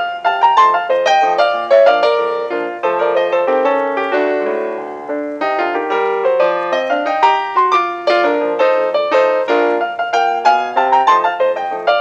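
Background solo piano music, a lively run of short, quickly played notes.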